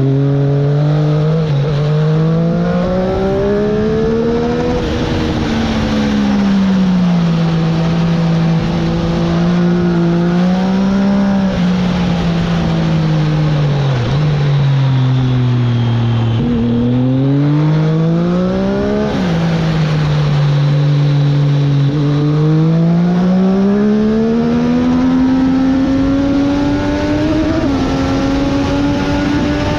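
Triumph Daytona 765's inline-three engine heard onboard at track speed. It revs up through the gears, with short dips in pitch at each upshift, then falls in pitch several times under braking and downshifts before pulling hard again.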